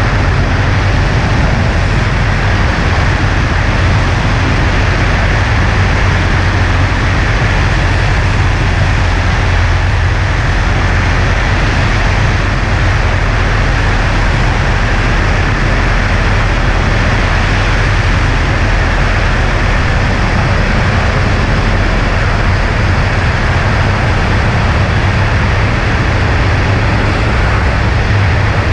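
Cessna 140A light plane in steady flight: the constant drone of its piston engine and propeller mixed with rushing wind noise, unchanging throughout.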